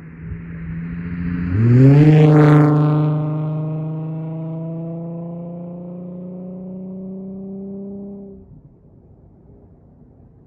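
Holden VY Commodore's Ecotec V6 through Redback headers, a high-flow cat and a Redback exhaust, accelerating past: the exhaust note rises in pitch about two seconds in, then holds a steady pitch as the car drives away and fades, dropping off sharply about eight seconds in.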